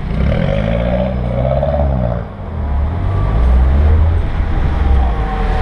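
Car engine heard through a camera mounted on its bonnet, driving at low speed: the engine note rises and falls over the first two seconds, dips briefly, then settles into a deep low drone.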